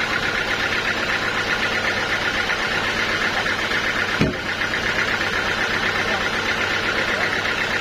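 Sawmill machinery running steadily with a fast, even rhythm, and one sharp knock about four seconds in.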